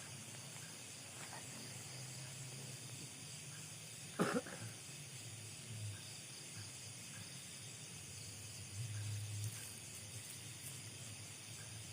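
Night insects, crickets, calling steadily in a constant high-pitched chorus. About four seconds in, a single short, sharp cough-like sound stands out above it.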